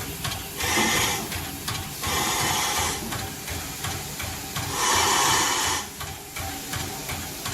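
Steam locomotive standing and working: a fast, even mechanical chugging throughout, with three hissing bursts of steam of about a second each.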